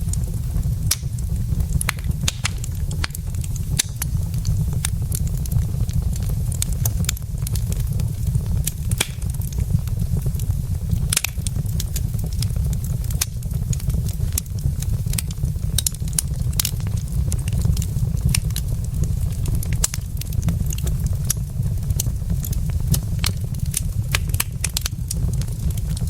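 Wood logs burning in a fireplace: frequent, irregular sharp crackles and pops over a steady low rumble.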